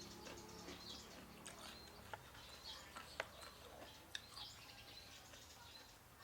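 Faint bird chirps over low background noise, broken by a few sharp clicks about two, three and four seconds in.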